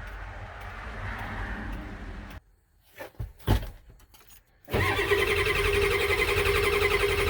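A motor vehicle engine running with a steady hum. It cuts out abruptly, leaving near quiet with a few knocks, then a louder engine starts suddenly and runs steadily with a pitched whine.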